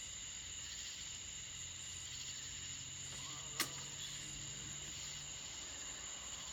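Steady, high-pitched chorus of crickets and other insects, with a single sharp click about three and a half seconds in.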